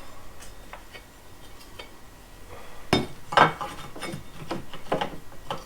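A metal hand tool clinking and knocking against wood framing: a few light clicks, then two sharp knocks about three seconds in and several smaller taps after.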